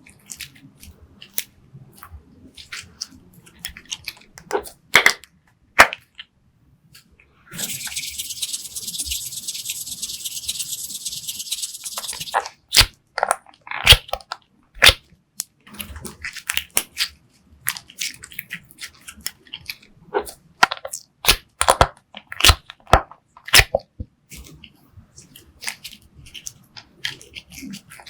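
Slime being squeezed and mixed by hand, giving many sharp, sticky pops and crackles at uneven intervals. Partway through there is a steady high hiss lasting about five seconds.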